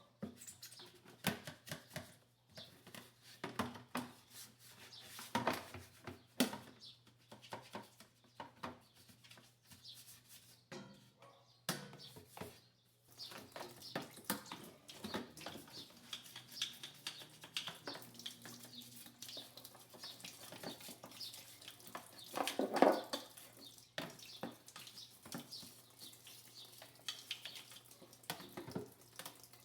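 Irregular clicks, knocks and rustles of hard objects being handled, with one louder knock about 23 seconds in, over a faint steady low hum.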